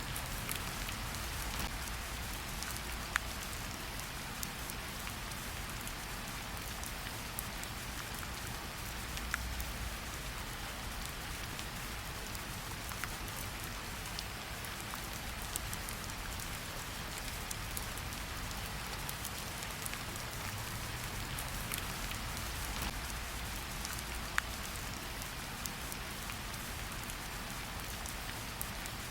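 Steady rain falling in a forest, a continuous hiss with scattered louder drops ticking sharply on nearby surfaces.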